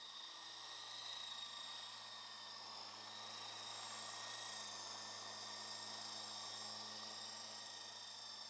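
Lama V4 coaxial electric RC helicopter, a faint steady electric-motor whine with rotor hiss, swelling a little in the middle.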